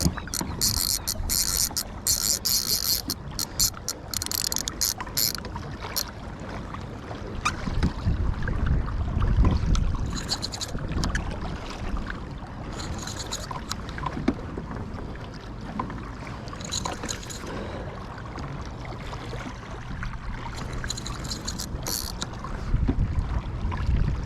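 Fishing reel drag clicking out in fast runs as a big hooked fish takes line, a long run over the first five seconds, then shorter runs several times. Underneath, wind and water rumble against the kayak.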